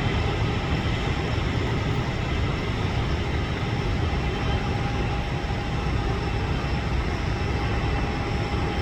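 Boeing 737 jet aircraft, a steady low rumble with faint thin whining tones above it, unchanging throughout.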